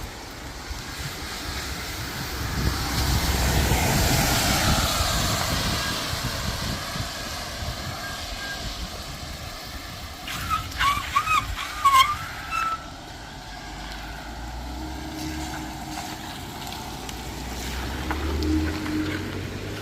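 Passing traffic on a wet street: a vehicle goes by with tyre hiss that swells and fades over a few seconds. About halfway through there is a short run of high squeals, the loudest sounds here, and near the end a heavier engine rumble.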